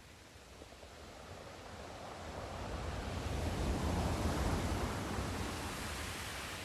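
Sea surf: a single wave rushing in, building to a peak about four seconds in and then fading as it washes back.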